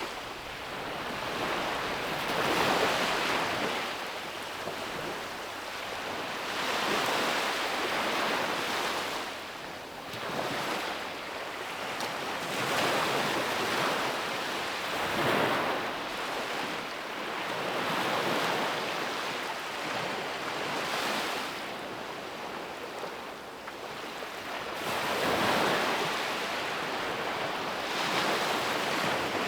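Ocean waves breaking and washing up on a beach, the surf swelling and falling away every few seconds.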